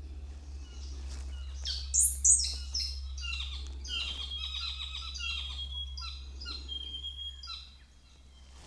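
Songbird singing: a rapid string of varied chirps and whistles, loudest about two seconds in, with a steady low hum underneath that drops away near the end.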